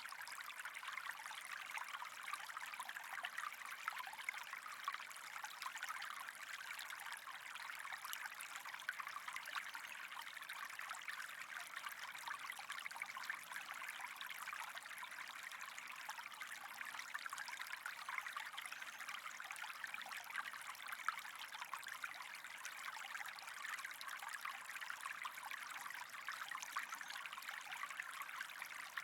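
Steady trickling, running water with a fine crackle.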